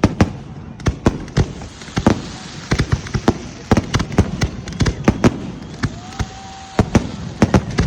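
Fireworks going off in rapid, irregular bangs and crackles, several a second, with a brief steady whistle-like tone about six seconds in.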